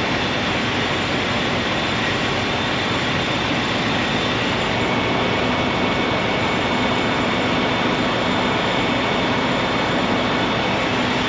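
Steady, loud rush of blizzard wind blowing over the microphone, with a faint, even hum of idling machinery underneath.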